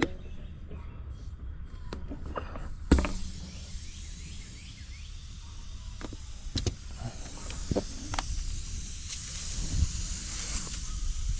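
A sharp knock about three seconds in, then a steady hiss of air that grows stronger toward the end, with a few light clicks, while a punctured tire is being plugged.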